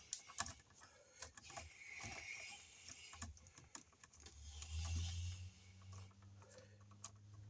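Small clicks and rustling as a plastic twist-on wire nut is screwed down over four copper wires to tighten the splice. A low steady hum comes in about halfway through.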